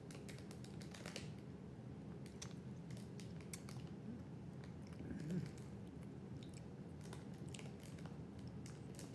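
Faint crunching and small clicks of someone chewing Combos cheddar cheese stuffed snacks, over a steady low hum, with one short louder low sound about halfway through.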